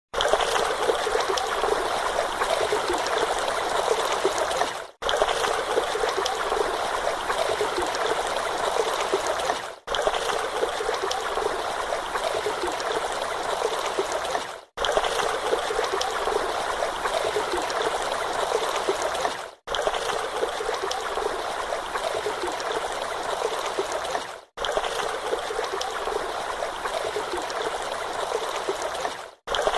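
Steady running water, a trickling stream sound, that cuts out for a moment about every five seconds.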